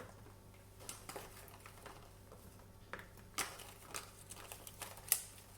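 Scattered light clicks, taps and rustles of meal prep containers and wrapped food being handled, with two sharper knocks in the second half.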